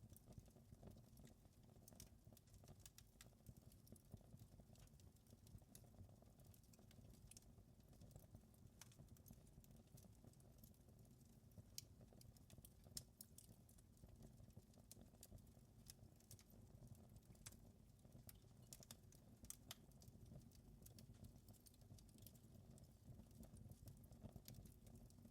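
Faint fireplace fire crackling: irregular small pops and snaps over a low steady rumble.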